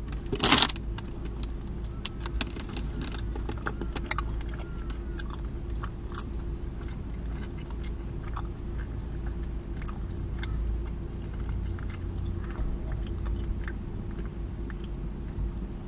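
A person biting into a slice of pizza about half a second in, then chewing it close to the microphone with many small wet clicks and smacks, over a steady low hum.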